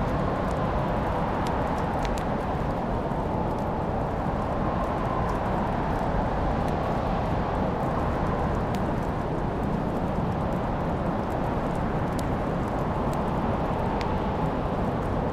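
Wood fire crackling, with scattered sharp pops and snaps over a steady rushing background noise.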